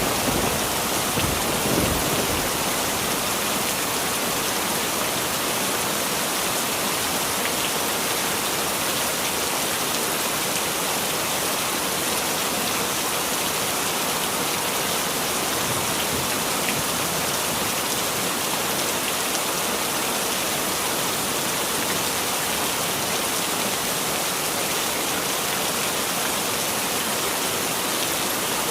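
Heavy rain falling steadily, an even hiss of rain on surfaces. The tail of a thunder rumble dies away in the first couple of seconds.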